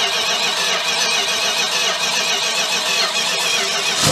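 A 1969 Dodge Charger's V8 cranking steadily on its starter in a rhythmic, even beat during a first start attempt after years of sitting, with fuel poured into the carburetor by hand. The cranking cuts off at the very end.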